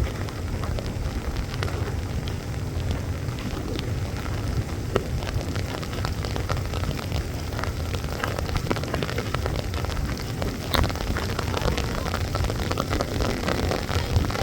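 Heavy rain falling, with many separate drops ticking sharply over a steady hiss and a low rumble underneath.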